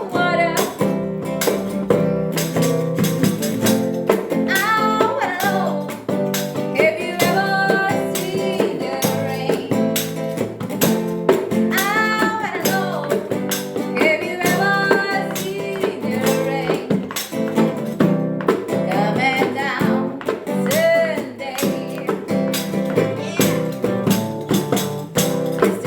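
Amateur group singing along to a strummed acoustic guitar, a live pop-rock song.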